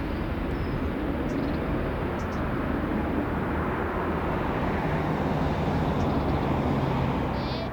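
Boeing 737-300 jet airliner coming in to land, its CFM56 engines giving a steady rumble and roar, with a low steady hum joining about five seconds in.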